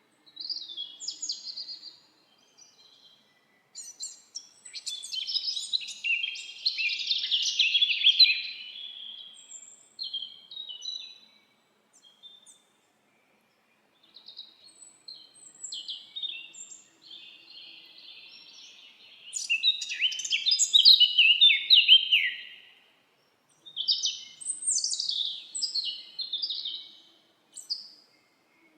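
Songbirds singing: bursts of quick chirps and trilled phrases, broken by short pauses.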